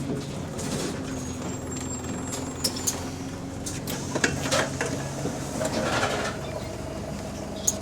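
Bus engine running, heard from inside the bus, which has an exhaust leak. Scattered clicks and rattles sound over it, with a short hiss of air about six seconds in.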